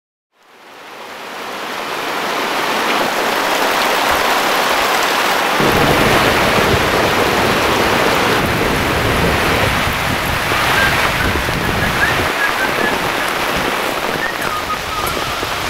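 Steady rain falling. It fades in over the first couple of seconds, and a deeper rumble joins about five and a half seconds in and eases off a few seconds later.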